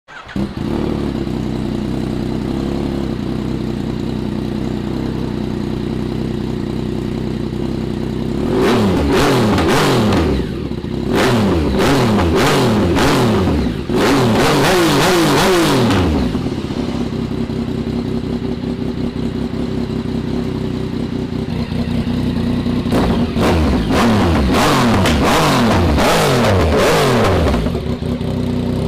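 Yamaha MT-09 inline three-cylinder engine idling, then revved in a run of quick throttle blips about eight seconds in. It settles back to idle, then is blipped again about 22 seconds in.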